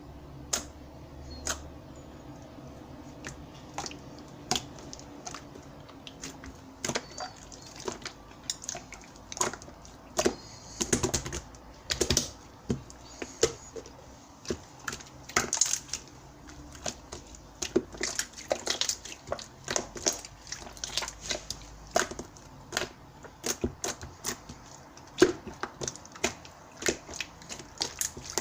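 Clear slime being squeezed and pressed by hand, giving a run of irregular sticky clicks and pops that grow busier and louder partway through.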